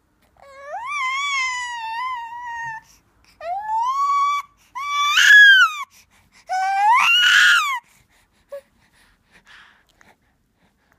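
Newborn baby crying in four short wails, each rising in pitch and then falling away, with the third the loudest.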